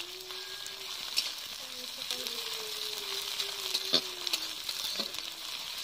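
Food sizzling in hot oil in a steel kadai, with a metal spatula scraping and clinking against the pan as it is stirred; the loudest clink comes about four seconds in. A faint wavering hum runs underneath.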